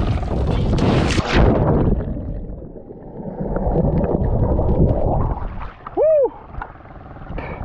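Wind on the microphone and rushing water from a boat underway. About six seconds in there is a brief, loud call that rises and falls in pitch.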